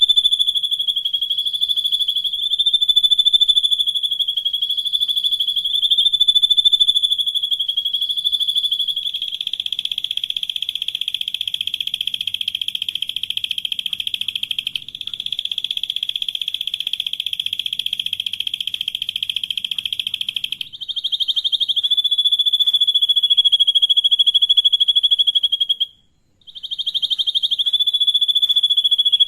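Songbird song: a continuous, shrill, high-pitched buzzing trill. It turns coarser and rattling through the middle and stops briefly about three seconds before the end.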